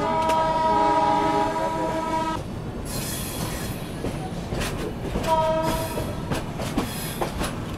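A train horn sounds for about two and a half seconds, with a second short blast about five seconds in. Between the blasts, a train runs slowly over the points, its wheels clicking over the rail joints.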